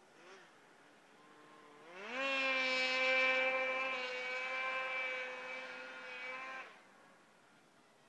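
Polaris RMK 700 snowmobile's two-stroke twin, fitted with an SLP exhaust and no muffler, idling faintly, then revved up quickly about two seconds in and held at a steady high rev for about four and a half seconds before being let back off.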